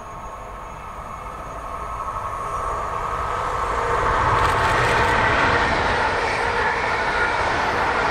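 A train approaching and passing close by on the main line: its noise builds steadily over about four seconds, then holds loud and even as the train runs past.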